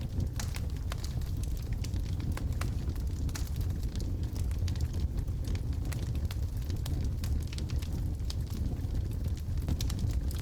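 Wood logs burning in a fireplace, with a steady low rumble of the flames and many small irregular crackles and pops.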